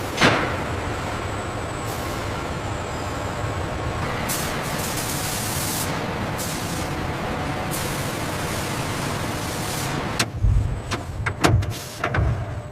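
Heavy machinery working scrap metal: a steady, loud mechanical noise with a sharp bang at the start, then a quick run of metal clanks and thuds near the end.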